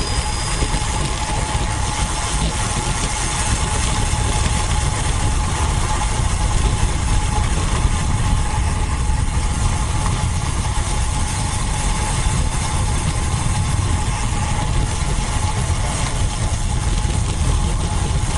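Wind rushing over the microphone while riding a road bike: a steady, fluttering low rumble with hiss above it, and a faint steady hum running through.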